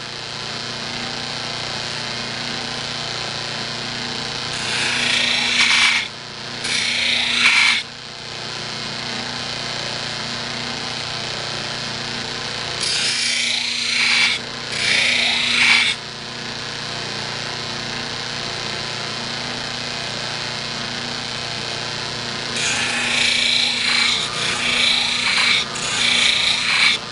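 Bench buffer motor running steadily while a horseshoer's hoof knife is pressed against the spinning sharpening wheel to blend the edge, in several grinding passes of a second or two, with a longer stretch of passes near the end.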